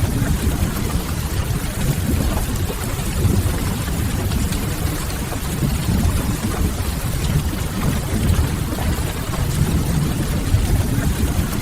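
Steady rain ambience with a deep, even rumble underneath and a light hiss on top.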